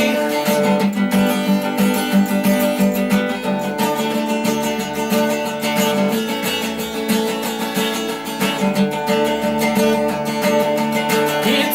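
Instrumental break of a song: strummed acoustic guitar over steady held backing tones, with no singing.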